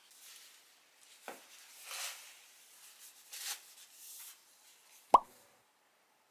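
Soft rustling and handling noises, then one sharp plop-like click with a brief ring about five seconds in.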